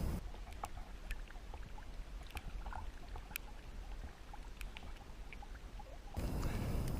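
Faint water trickling and dripping, heard as scattered small ticks over a low rumble.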